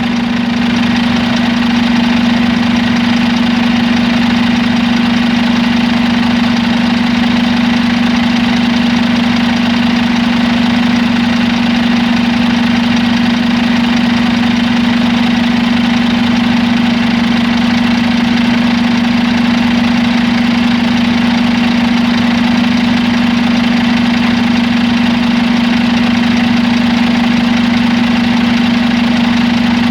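Scania G450 truck's diesel engine idling steadily, with a strong constant hum.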